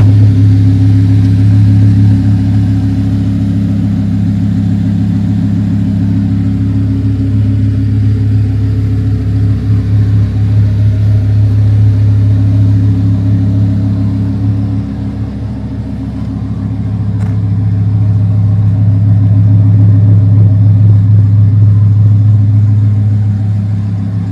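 Twin-turbocharged Audi R8 V10 with a titanium X-pipe exhaust, running steadily at low engine speed with a deep even drone. Its level dips for a moment about two-thirds of the way through, then comes back up.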